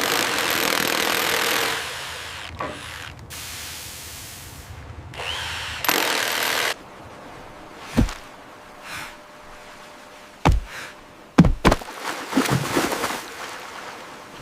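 A power tool running in three bursts over the first seven seconds, the last stopping abruptly, followed by several sharp knocks in the second half.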